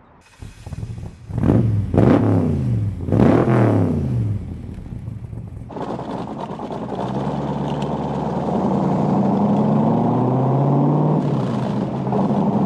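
Backdraft RT4 Cobra's 427 V8 starting up and being blipped twice, each rev rising and falling quickly. It then pulls away under way, a steady rumble whose pitch climbs slowly and dips once near the end, as at a gear change.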